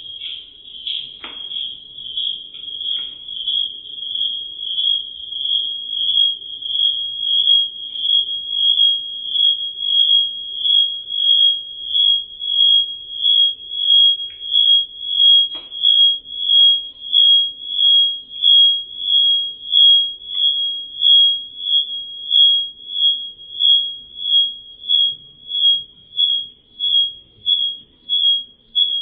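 A high-pitched squeaky tone at one steady pitch, pulsing evenly about one and a half times a second and growing louder over the first several seconds. A few faint clicks sound under it.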